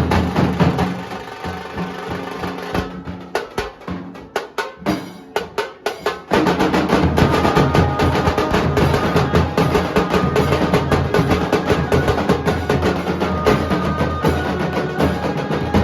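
Nashik dhol ensemble of large barrel dhols and small tasha drums playing a fast rhythm. The drumming thins to a few scattered strokes for about three seconds, then the full group comes back in together about six seconds in.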